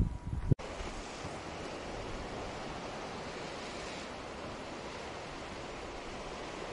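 A brief low rumble is cut off sharply about half a second in. It gives way to a steady, even rushing of sea waves on the shore that carries on unbroken.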